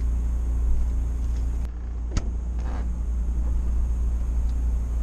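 Steady low rumble of an idling engine, with a single sharp knock about two seconds in.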